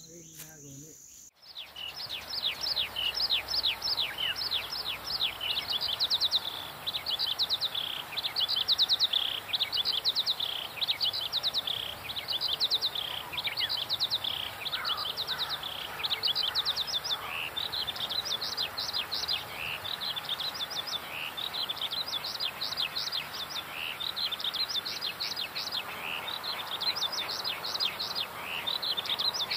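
Birds chirping: rapid runs of short, falling chirps that repeat without pause, starting about a second and a half in after a quiet moment.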